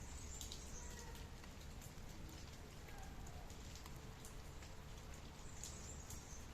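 Rain falling with scattered drips, and a few brief bird chirps.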